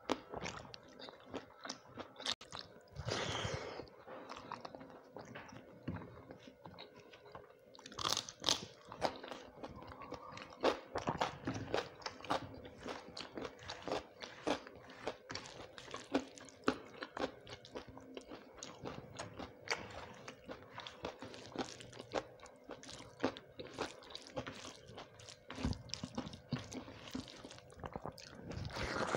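Close-miked chewing and crunching of a mouthful of rice and fried vegetables, with many small crisp clicks throughout and a few louder crunches.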